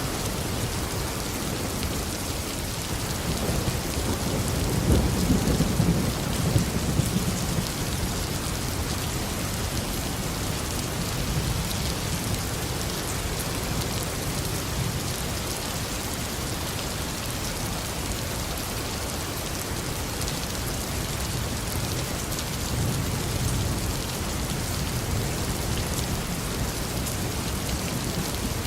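Steady rain falling during a thunderstorm, with low rumbles of thunder swelling about four seconds in and again past twenty seconds.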